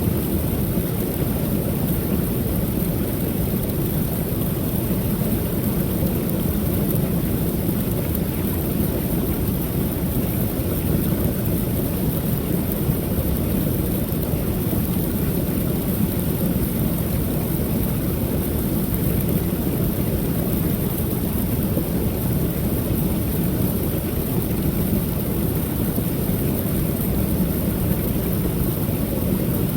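Water pouring over a small creek waterfall: a steady, deep rush of falling and splashing water that never changes.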